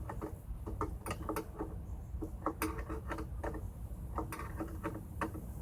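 Irregular light clicks and ticks of metal hardware handled and turned by hand while fitting bolts and nuts on a snow pusher, over a steady low rumble.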